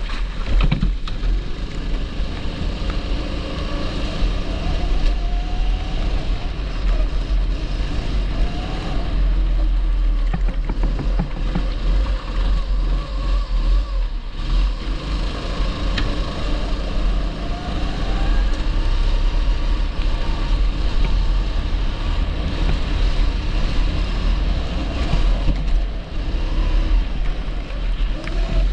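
270cc go-kart engine running at speed, its pitch rising and falling again and again as it accelerates and eases off around the track, over a heavy low rumble.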